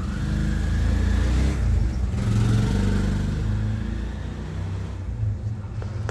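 Philips radio running from a 3 V DC adapter in place of its batteries, its speaker giving a low rumbling hum with a faint whistle that rises during the first second and a half.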